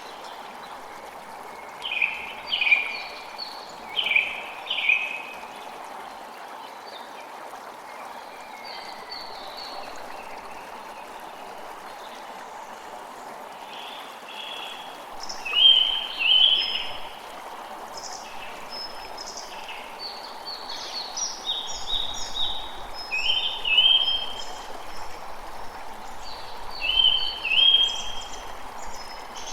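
Steady rush of running water, with birds chirping over it in short clusters of calls that come thicker in the second half.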